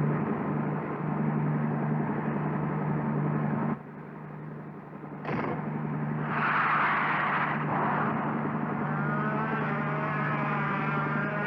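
Cartoon race-car engine sound effect running at a steady pitch. It drops out for about a second and a half around four seconds in, then comes back with a loud hiss around six to seven seconds. Near the end a wavering whine rides over it.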